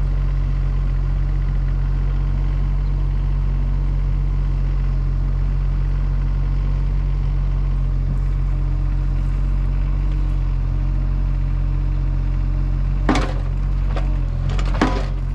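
An engine running steadily at an even speed, with a few sharp knocks near the end.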